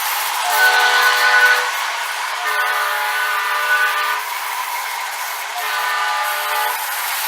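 Electronic diesel air-horn sound from an MTH model ALCO PA locomotive's onboard sound system, played through its small speaker: three horn blasts, the middle one longest, over the model's steady running noise.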